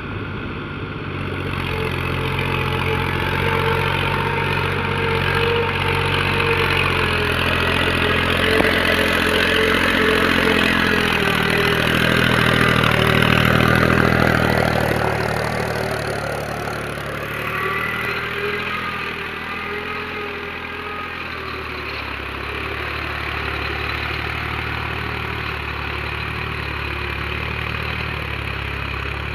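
Mahindra tractor's diesel engine running steadily, working harder and louder for several seconds in the middle as it takes on more load, then easing back.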